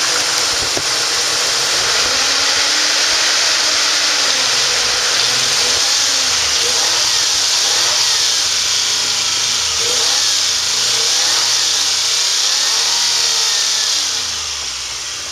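1989 Nissan 300ZX's 3.0-litre V6 running and being revved up and down a few times, under a strong steady hiss. It quietens a little near the end.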